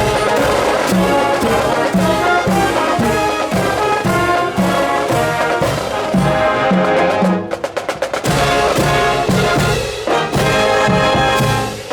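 Marching brass band playing: trumpets and trombones carry a melody over marching drums. About seven and a half seconds in, the brass briefly drops out for a few quick drum strokes, then comes back in.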